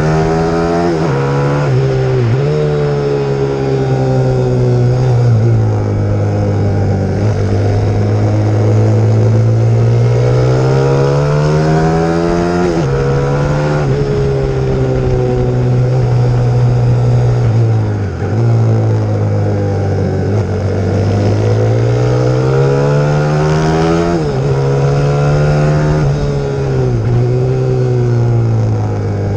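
Pit bike's single-cylinder four-stroke 150 cc engine under hard riding: its pitch climbs under throttle, breaks off at gear changes, and falls back when the throttle closes, over and over.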